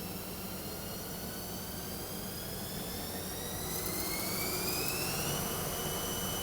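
CNC lathe spindle whining as it speeds up: the whine climbs in pitch for about five seconds, then levels off at a steady speed. A high hiss joins for the last part of the climb.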